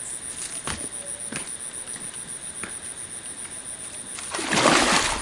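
Crickets chirping steadily in a fast, even high-pitched pulse, with a few faint clicks and a louder rustling noise for the last second or so.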